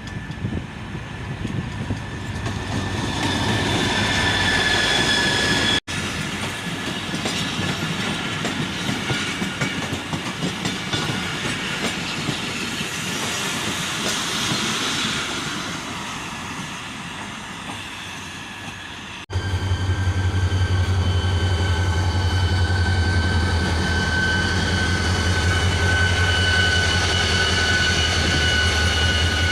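Karachi Circular Railway passenger train running through a station, with rail noise, clicking over the rail joints and thin wheel squeals. After an abrupt cut, a strong steady low hum runs under the squeal.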